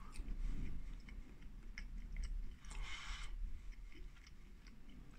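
A person chewing a mouthful of microwaved doner kebab meat, with soft wet mouth clicks. A short breathy hiss comes about three seconds in.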